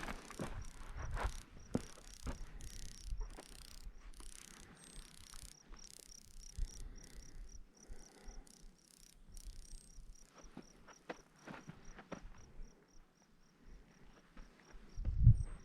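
An insect chirping steadily in short, high, evenly spaced chirps, about three a second, over crunching footsteps on dry ground. A low thump sounds near the end.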